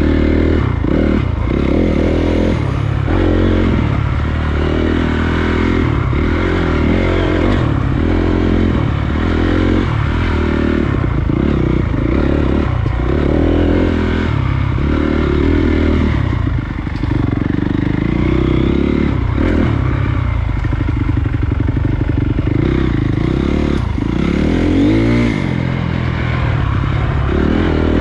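A Honda CRF250 dirt bike's single-cylinder four-stroke engine running on a trail, the throttle opened and eased off roughly every second, with one rising rev near the end.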